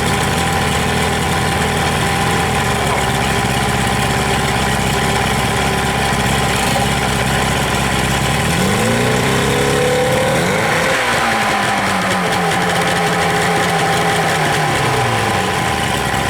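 130 hp Chrysler outboard motor running at a steady idle, revved up once about eight seconds in and then settling back down to idle over several seconds. It is running on an automotive coil and point distributor fitted in place of its Magna-Power II ignition.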